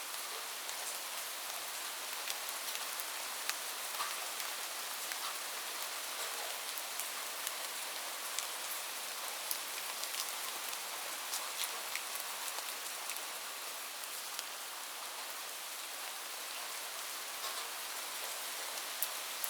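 Steady rain falling: an even hiss with many scattered sharp ticks of individual drops striking a surface.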